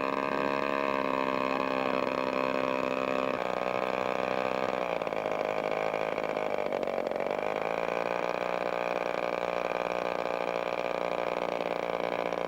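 Engine of a radio-controlled quarter-scale Sig Cub floatplane model running steadily, with its pitch dropping in steps about a third of the way in, dipping briefly in the middle and rising back as the throttle is worked.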